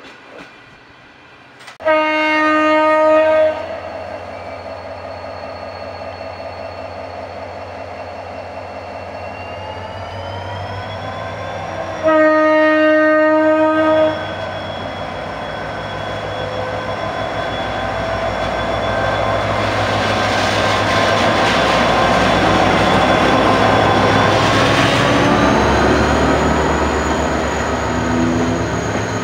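CNR CKD diesel locomotive sounding its horn twice, two blasts of several tones each, about ten seconds apart. After that the engine and the rumble and clatter of the train's wheels grow louder as it runs past, loudest about three-quarters of the way through.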